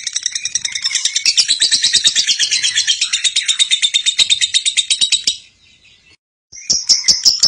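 Lovebird's long, rapid chattering trill (ngekek), a fast string of shrill notes. It breaks off about five seconds in and starts again after a gap of about a second.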